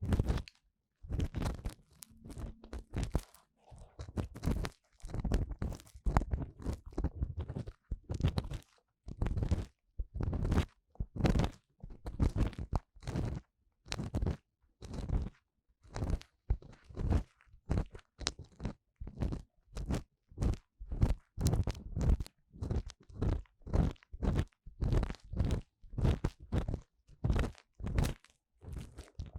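Ear-cleaning tool scraping inside the silicone ear of a 3Dio binaural microphone: short crunchy strokes, about one and a half a second, with brief silences between.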